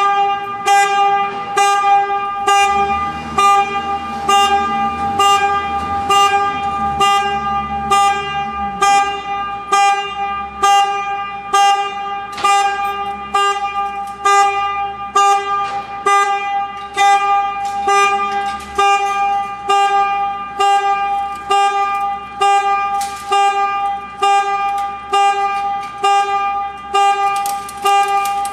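Reversing alarm on a tow truck, beeping about once or twice a second, with a low engine rumble under it for several seconds in the first third.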